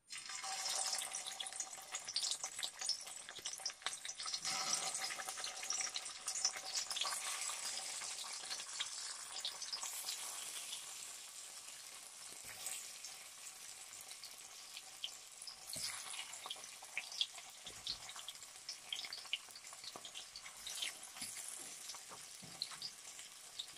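Stuffed round gourds (tinda) sizzling and crackling in a little hot oil in a karahi as they are set into the pan one by one. The sizzle is louder in the first half and settles lower later on.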